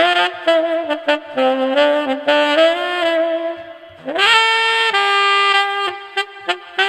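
Yamaha YTS-23 tenor saxophone played solo: a run of short notes, then about four seconds in a scoop up into a long held note, followed by more short notes.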